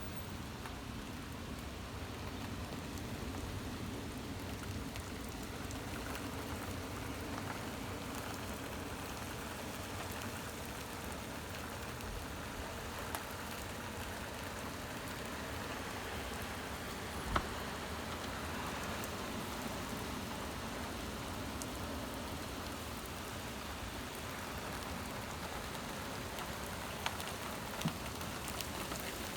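Heavy rain pouring steadily in a severe thunderstorm, with a few sharp taps here and there, the loudest a little past the middle.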